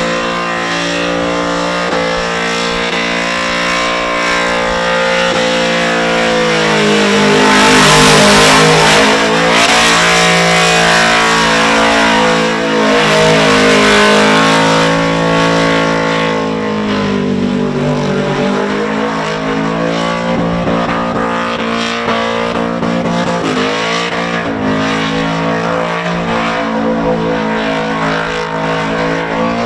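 Holden VX Commodore burnout car's engine held at high revs in a burnout, its pitch rising and falling again and again as the rear tyres spin, loudest about a third of the way in and again near the middle.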